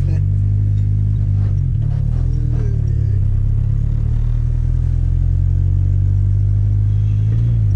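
Turbocharged Chevette's engine running under way at a nearly constant pitch: a steady, low drone.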